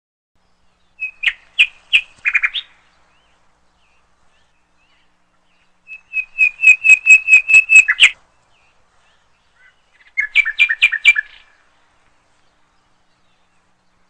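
A bird chirping in three short bouts of quick, repeated clear notes: the first about a second in, a longer run of about ten notes around six seconds in, and a last bout at about ten seconds.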